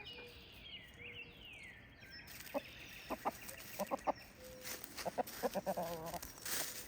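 Backyard hens clucking softly in short low calls, coming in small clusters through the second half.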